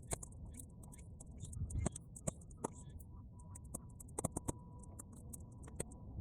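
Bonfire of half-dried weeds crackling, with irregular sharp pops several times a second, over a low rumble of wind.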